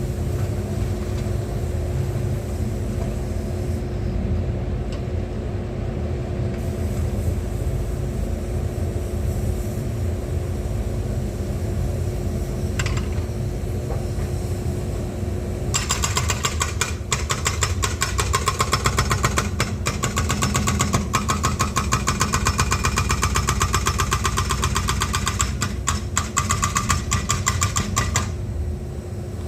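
Excavator's diesel engine running steadily. About halfway through, a rapid, even clatter starts, lasts about twelve seconds and stops near the end.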